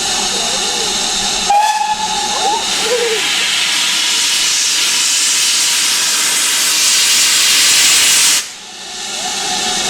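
Steam locomotive hissing: a loud, steady rush of escaping steam that swells and then cuts off suddenly about eight and a half seconds in. A short single tone sounds about a second and a half in.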